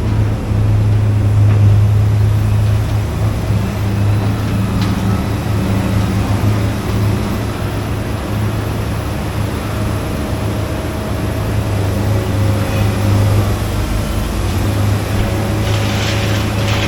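Vehicle engine idling steadily with a low, even hum. A short burst of higher-pitched noise comes in near the end.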